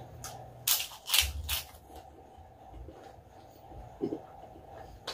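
Crispy chicharon being crunched in the mouth close to the microphone: three loud crunches in the first second and a half, then softer chewing crackles.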